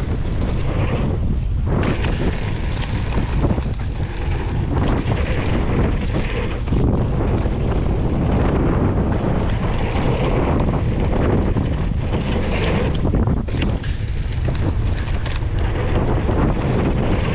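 Wind rushing over the microphone and mountain-bike tyres rumbling over the dirt trail during a fast downhill descent, a loud, continuous, fluctuating noise.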